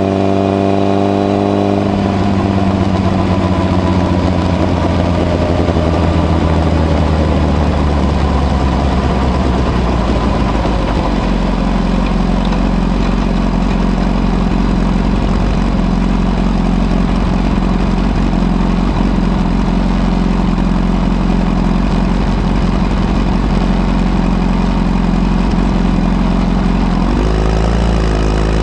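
Honda CBR1000RR's inline-four through a modified Moriwaki exhaust with the baffle fitted, holding a steady note, then sinking in pitch over several seconds as the bike slows. It settles into a steady low note for about fifteen seconds, and the note changes again near the end.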